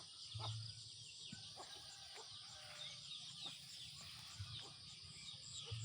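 Quiet rural outdoor ambience: many birds chirping in short calls, with chickens clucking, over a steady high-pitched hiss.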